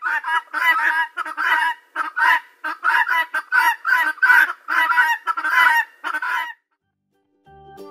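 Helmeted guineafowl giving a rapid series of harsh, rasping calls, about three a second, that stop about six and a half seconds in.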